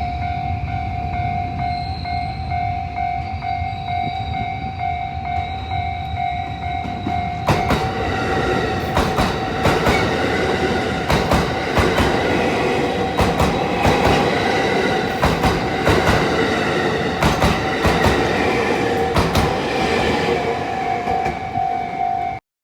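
Japanese level-crossing warning bell ringing with a steady, rapidly repeating tone. About seven seconds in, a train runs through the crossing, its wheels clacking over the rail joints and drowning out the bell. Near the end the train clears and the bell is heard clearly again before the sound cuts off suddenly.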